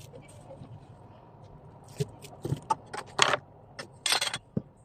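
Household objects being handled: scattered clicks and knocks, the loudest a little after three seconds in, with a short scraping burst about four seconds in.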